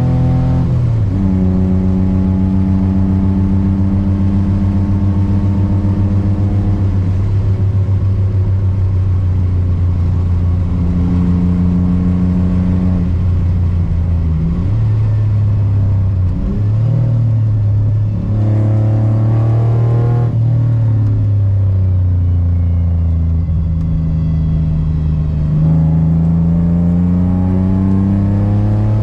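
Car engine heard from inside the cabin at track speed, holding a steady note for several seconds at a time. Around the middle the pitch drops and jumps as the car slows for corners, and near the end it climbs steadily as the car accelerates hard.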